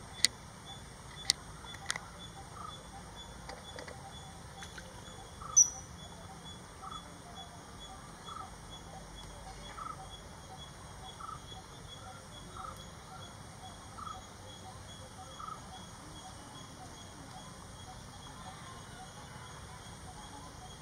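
Outdoor ambience with a bird repeating a short note about every second and a half. A single loud, sharp, high chirp comes about five and a half seconds in, and a few sharp clicks come in the first two seconds.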